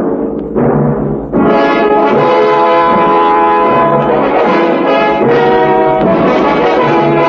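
Orchestral music: a couple of timpani strokes, then about a second and a half in the brass-led orchestra comes in, playing held chords of a dramatic theme.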